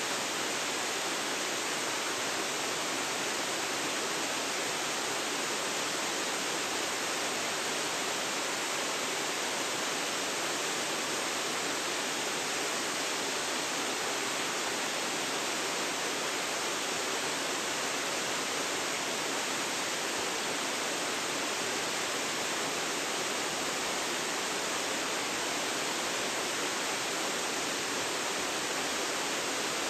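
Waterfall, its falling water making a steady, unbroken rushing sound.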